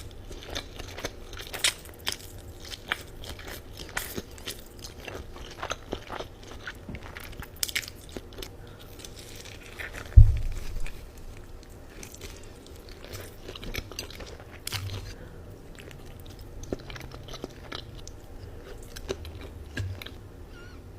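Close-miked chewing and biting of Buldak spicy ramen noodles and dumplings, full of short wet mouth clicks. A single heavy thump about ten seconds in is the loudest sound.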